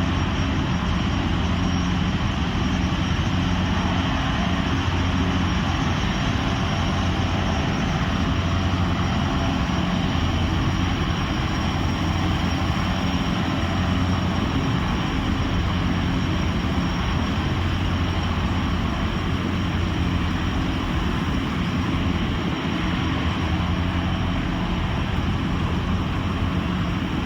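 Boeing 929 Jetfoil's gas turbine engines running steadily: an even rushing noise over a low hum.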